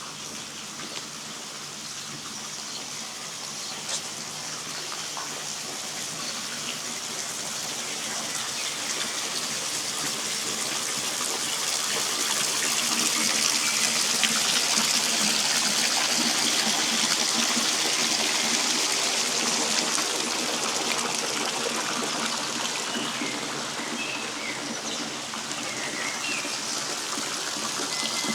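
Rushing river water, a steady hiss that grows louder for about the first ten seconds, holds, then eases off a little. A few short bird chirps come in near the end.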